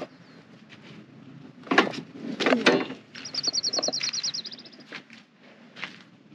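A small songbird sings a rapid, even trill of high notes lasting about a second and a half, starting around the middle. Shortly before it come two louder brief scuffing sounds.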